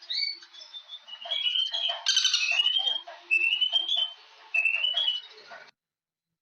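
Birds calling: a run of short rising whistled notes and chirps, repeated several times, that cuts off suddenly near the end into dead silence.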